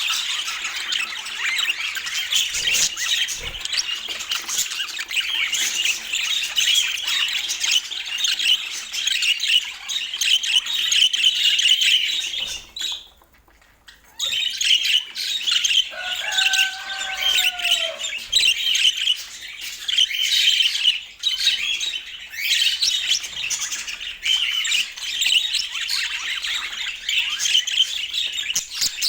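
Budgerigars chattering and warbling in a dense, unbroken stream of chirps and squawks. The chatter drops out briefly about thirteen seconds in, and a lower, slightly falling call is heard a few seconds later.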